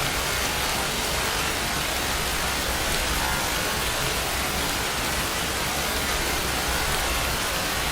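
Steady rain falling in a continuous even hiss, with no distinct drops or thunder standing out.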